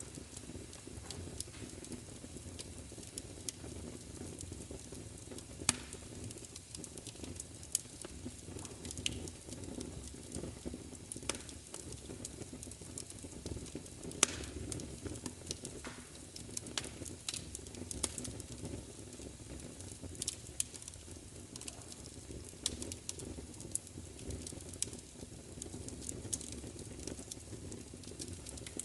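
Fire crackling: a steady low rumble of flames with frequent sharp pops and snaps, two louder pops about six and fourteen seconds in.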